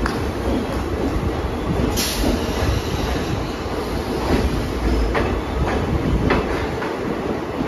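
Passenger express train running on the line, heard from on board: a steady rumble of wheels on rail, with a few sharp, irregularly spaced clicks as the wheels cross rail joints.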